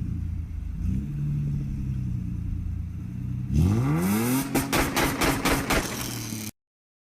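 Car engine idling, then revved hard about three and a half seconds in: the pitch climbs fast and breaks into a rapid stutter of loud crackles, then the sound cuts off abruptly.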